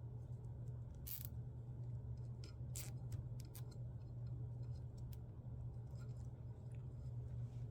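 Scattered small clicks and short scratches of plastic cable ties being handled and pulled tight around a cable, over a steady low hum.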